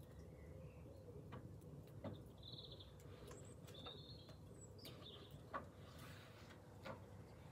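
Faint birdsong: a few short chirps from garden birds over a quiet background, with several soft clicks scattered through.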